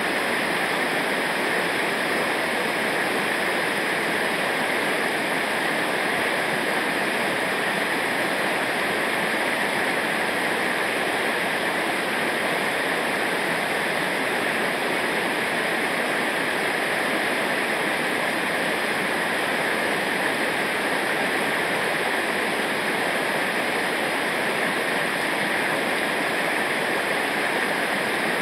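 Rushing river water, a steady, even hiss with no break or change.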